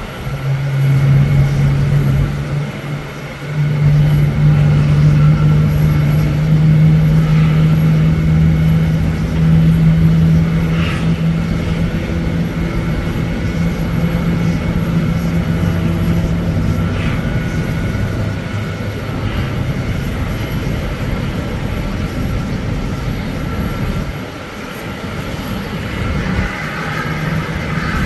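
Boeing 777-200ER jet airliner on the ramp during engine start: a loud, steady low drone with a fainter high whine above it, easing off about two-thirds of the way through.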